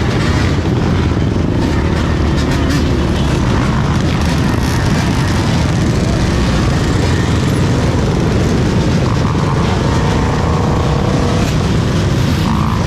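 Many dirt bike engines running and revving at once in a dense, continuous pack, with overlapping rising and falling engine notes.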